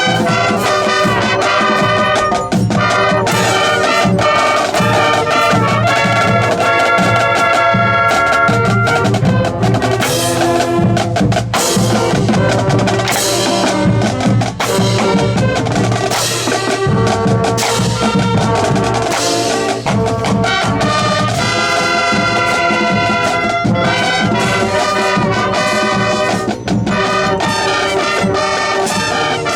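Marching band playing field show music: trumpets and trombones carrying held brass lines over drums, with cymbal crashes through the middle.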